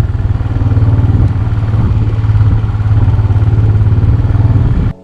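Motorcycle engine running steadily while riding, a low rumble with a fast even firing beat. It cuts off abruptly just before the end.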